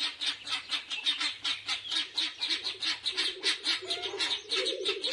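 Guinea fowl calling in a fast, harsh, rattling chatter of short notes, about six a second, with a lower chatter joining in near the end.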